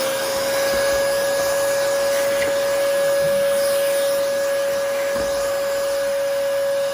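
Vacuum cleaner motor running steadily at full speed, a constant whine over a rushing airflow hiss.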